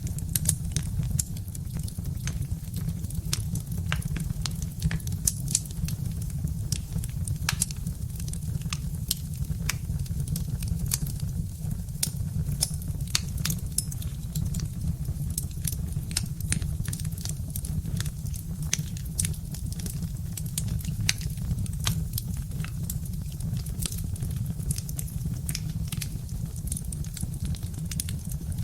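Birch-wood fire crackling, with many small, irregular pops and snaps over a steady low rumble.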